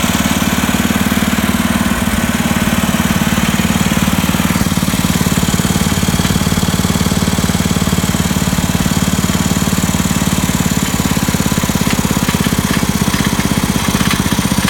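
Wheel Horse garden tractor engine running steadily, with a fast, even beat.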